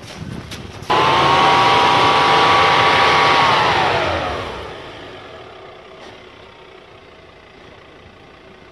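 An off-road 4x4's engine suddenly revs hard about a second in and holds at high revs for a few seconds, then the revs drop away and the sound fades.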